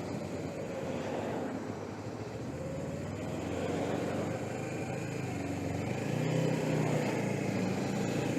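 Suzuki GS500E air-cooled parallel-twin engine running under way, its pitch drifting up and down with speed and a little louder about six seconds in, under the rush of wind on a helmet microphone.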